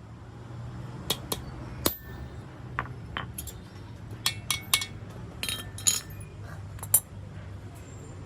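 Irregular sharp metallic clinks and taps, about a dozen, as metal tools and parts are handled and struck, over a low steady hum.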